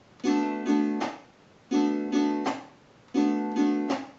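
Venezuelan cuatro strummed in a waltz pattern, three times over: two index-finger upstrokes let the chord ring, then a muted downstroke (the apagado), with the palm on the strings, cuts it short.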